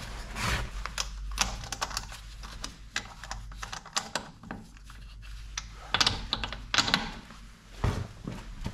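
Ratchet of a torque wrench clicking in quick, irregular runs as wheel bolts are tightened, with a few louder clacks about six and seven seconds in and again near the end.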